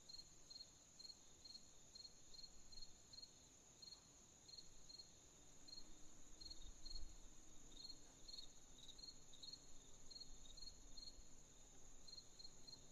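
Crickets chirping at night, quiet: a steady high insect trill under a separate chirp that repeats about three times a second. A faint low rumble swells briefly about halfway through.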